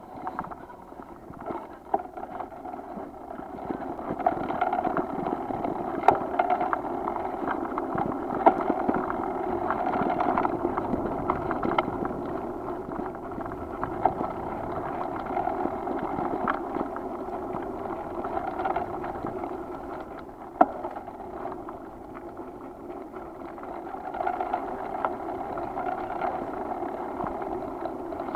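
Bicycle in motion: steady riding noise from the tyres and frame, with scattered sharp knocks and rattles, one louder knock about two-thirds of the way through.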